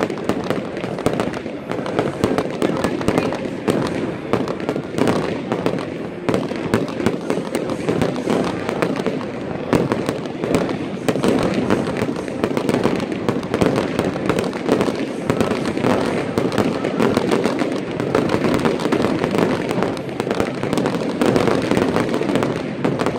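Fireworks going off continuously, a dense stream of rapid crackles and pops with no break.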